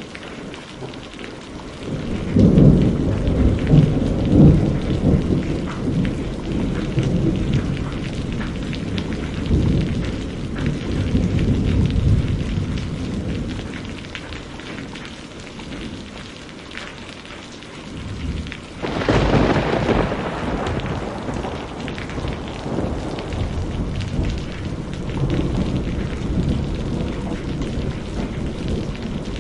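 Steady rain falling with thunder: a long rolling rumble begins about two seconds in and dies away, then a sharper crack of thunder comes about two-thirds of the way through and rolls off into more rumbling.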